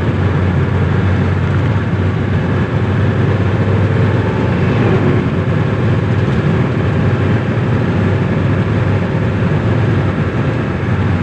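1985 Mercedes-Benz 300D's 3.0-litre five-cylinder turbo diesel running steadily while the car is driven, a steady low drone over even road noise.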